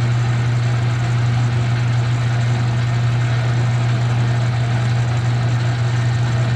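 Metal lathe running steadily with a constant low hum over an even mechanical noise.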